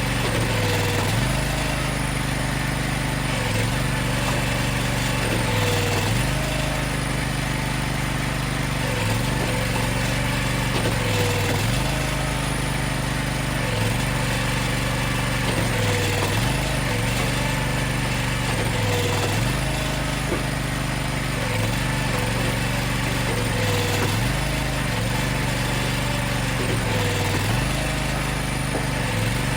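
Engine of firewood-processing equipment running steadily, its pitch dipping briefly and picking back up about every two to three seconds as it repeatedly takes a load.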